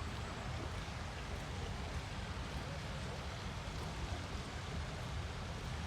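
Steady city street ambience: a continuous low rumble of traffic under an even hiss, with no distinct event standing out.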